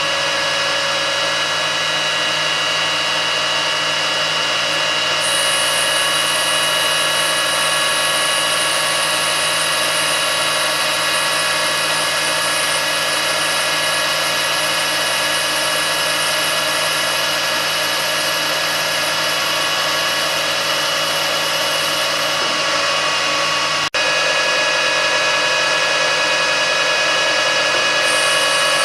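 Metalworking lathe running steadily with a constant whine while turning a bar down to a marked line. A higher hiss joins for much of the time, and there is a momentary break about two-thirds of the way through.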